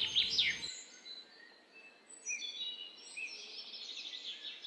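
Small garden birds singing: short, high chirps and warbled notes, with a brief lull about a second in, then a run of quick notes from about two seconds in, over faint outdoor hiss.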